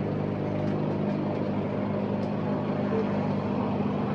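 A steady, even motor hum with a low droning tone and no change in pitch.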